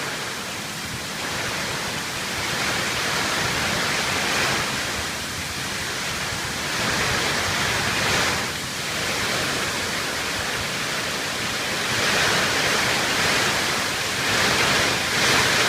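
Heavy rain drumming on a tin roof, a dense steady hiss that swells and eases every few seconds.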